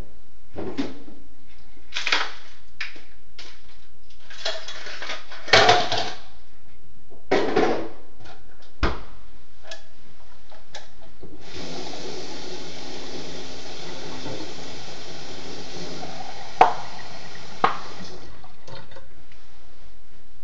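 Hard objects knocking and clattering as they are handled, then water pouring in a steady stream for about seven seconds before it stops abruptly. Two sharp knocks land near the end of the pour.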